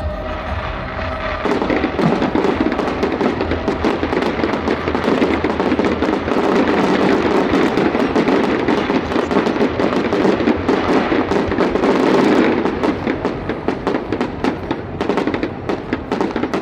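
Fireworks going off: from about a second and a half in, a dense, continuous barrage of crackling bursts, which thins after about twelve seconds to separate sharp cracks. Music plays underneath.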